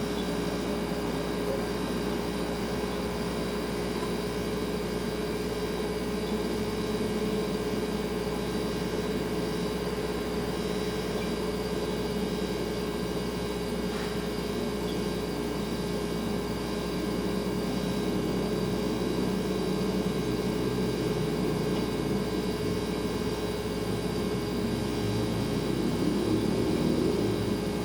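Refrigerator running with a steady hum, a little louder in the second half.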